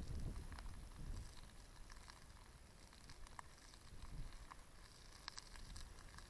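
Wood fire crackling in a small fire pit: scattered faint pops and ticks over a low rumble.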